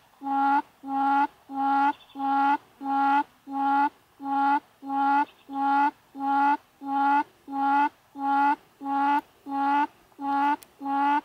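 Recorded buttonquail call played as a lure through a small loudspeaker: the same short hooting note repeated evenly about twice a second.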